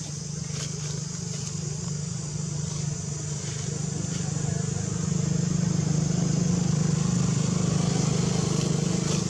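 A motor vehicle's engine running steadily as a low hum, growing louder about halfway through and then holding.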